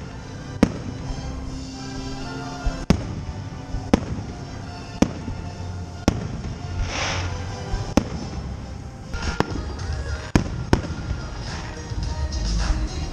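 Aerial fireworks bursting in a series of sharp bangs, roughly one a second, with music playing underneath; a brief hiss about seven seconds in.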